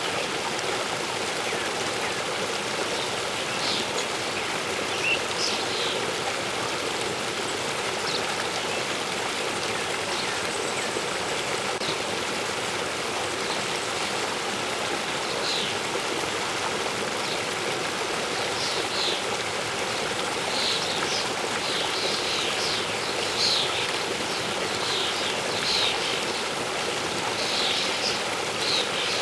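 Steady rush of a waterfall's falling water, with songbirds chirping over it in short high calls, sparse at first and more frequent in the second half.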